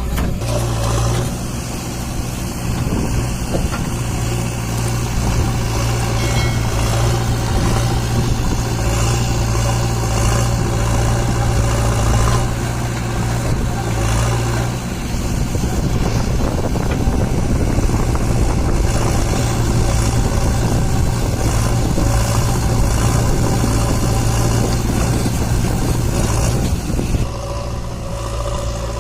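Mahindra 595 DI tractor's four-cylinder diesel engine running steadily, dropping in level about two seconds before the end.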